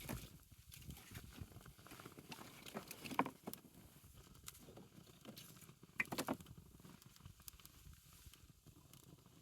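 Wood fire crackling, with irregular sharp pops; the louder ones come right at the start, about three seconds in and about six seconds in.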